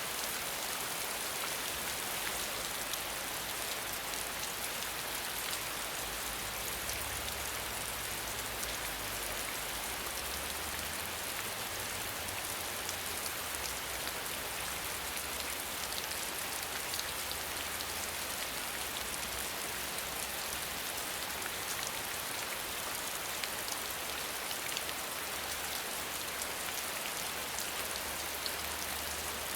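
Steady rain falling: a dense, even hiss of many drops with fine individual patters.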